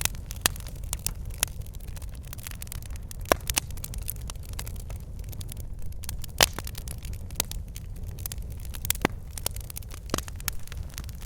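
Wood fire burning in a fireplace: logs crackling and popping at irregular intervals over a steady low rumble of flame. The loudest pop comes a little past halfway.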